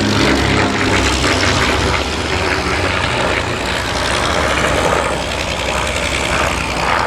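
Piston-engined propeller aircraft flying past, its engine note falling in pitch and fading into a steady, rougher engine sound in the first couple of seconds.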